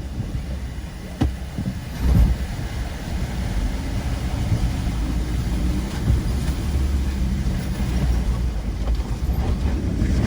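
Ford Ranger's engine running under load in low-range second gear, towing a trailer through a river crossing, with sharp knocks about one and two seconds in.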